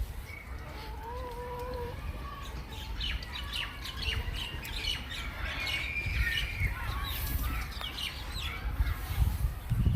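Young backyard poultry, ducklings and chicks, peeping and chirping in many short calls, with one longer held call about a second in.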